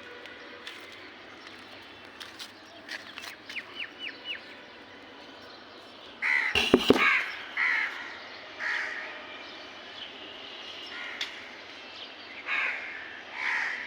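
Crows cawing repeatedly, with a quick run of short chirps about four seconds in and a few loud sharp knocks about six and a half seconds in.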